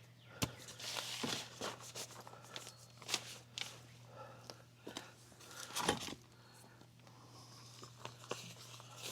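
Light handling noises: scattered clicks, small knocks and rustling as something at the rain-water tote is closed back up.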